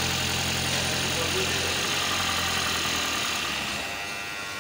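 Toyota Aqua hybrid's 1.5-litre four-cylinder engine idling under the open hood with the air conditioning switched on, a steady hum with an even hiss over it. The low hum fades and the sound drops a little quieter about three seconds in.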